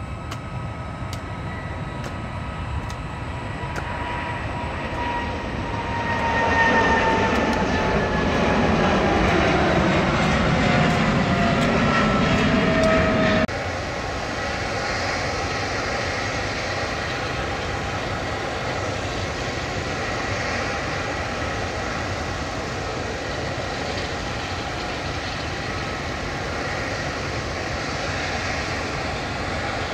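Jet airliner engines running with a steady rumble. From about six seconds in it grows louder, with a high whine that falls in pitch as an aircraft passes. Near the middle it drops suddenly to a steadier, quieter jet rumble.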